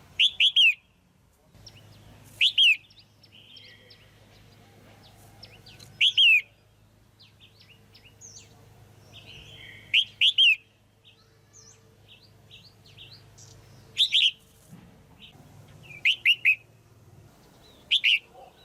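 Female red-whiskered bulbul calling: seven short, loud calls of two or three quick notes each, coming every two to four seconds, with fainter chirps in between. This is the female call used to stir up male bulbuls or to pair birds.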